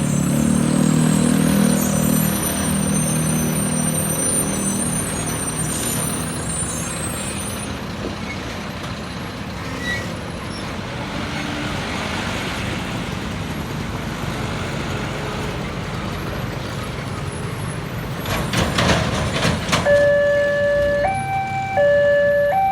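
Road traffic with a vehicle engine running, then a few knocks, then from about three seconds before the end a two-tone warning signal sounding, stepping back and forth between a lower and a higher pitch about once a second.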